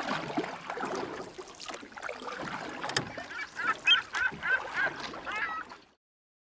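A run of about eight short, repeated bird calls over a jumbled background, starting about halfway through, with a sharp click about three seconds in; the sound cuts off abruptly near the end.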